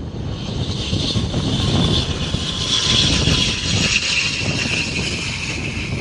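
Aircraft engines whining as a plane passes, the high whine slowly falling in pitch, over a steady rumble of wind on the microphone.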